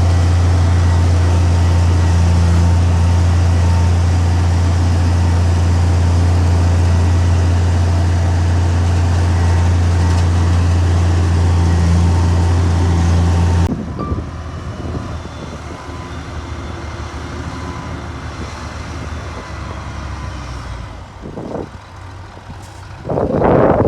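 Heavy diesel machinery running with a steady, strong low hum; about two-thirds of the way through it cuts off abruptly to a quieter engine sound, and a louder burst comes near the end.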